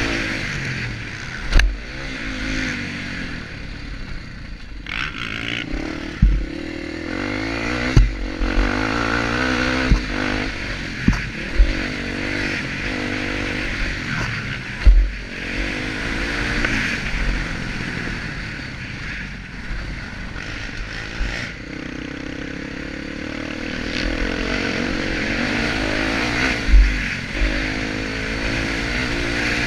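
Honda Tornado 250 dirt bike's single-cylinder four-stroke engine revving up and falling back again and again through the gears. Sharp thumps come every few seconds, the loudest about halfway through.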